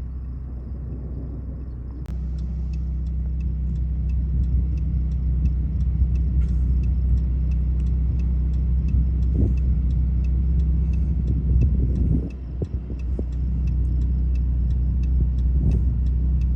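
Car's engine and cabin rumble heard from inside the vehicle, with the turn-signal flasher ticking steadily, a few ticks a second, starting about two seconds in.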